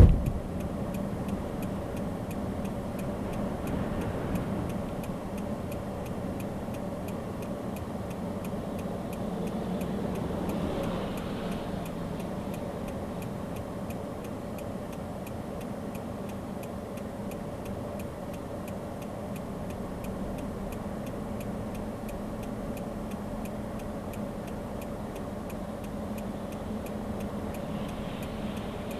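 A vehicle engine idling with a steady hum, with a faint, regular ticking throughout.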